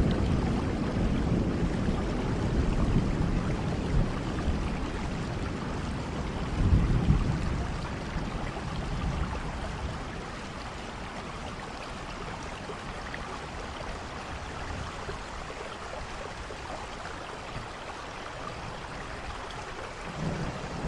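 Steady rain falling, with low rumbles of thunder near the start, about seven seconds in and again at the very end. The rain is softer through the middle and second half.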